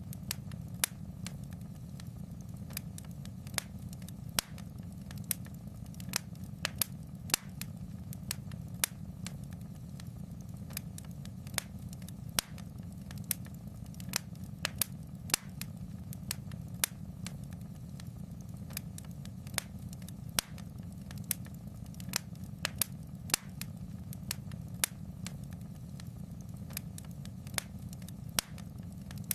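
Wood fire crackling in a fireplace: sharp pops at irregular intervals over a steady low rumble of the flames.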